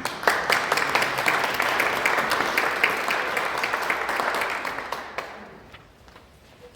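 Audience applauding, breaking out at once and dying away over the last couple of seconds.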